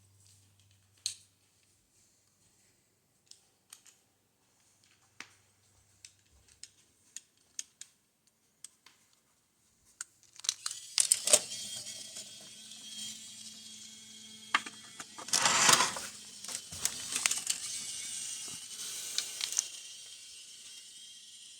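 Sparse light clicks and taps, then about halfway in a small battery toy train motor starts running with a steady hum and a rattling clatter of wheels on wooden track.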